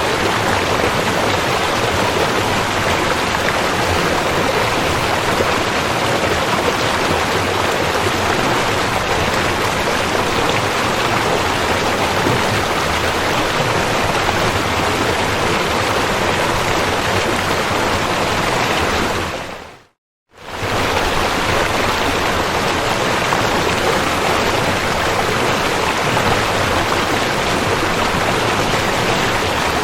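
River water rushing in a steady, even wash. About two-thirds of the way through it fades out to silence for a moment, then fades straight back in.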